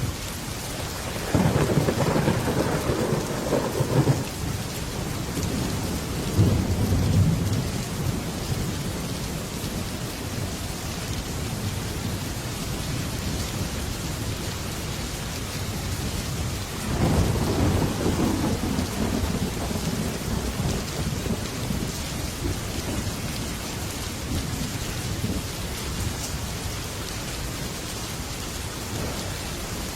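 Heavy rain drumming steadily on a metal roof, with thunder rumbling twice: a loud roll a couple of seconds in with a low after-rumble, and another about halfway through.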